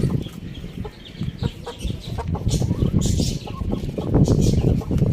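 Chickens clucking, over a steady low rumble.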